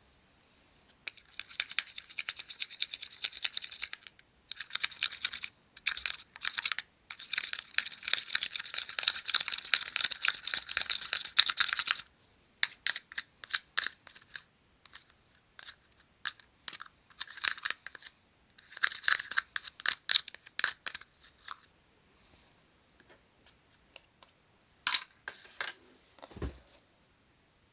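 Dense crackling and clicking from handling cut-open rubber mini balloons and the slime inside, coming in bursts of several seconds with short pauses, fading to sparse clicks near the end.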